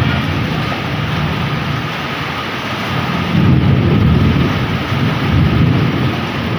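Heavy rain pouring steadily, with a low rumble underneath that grows louder about halfway through.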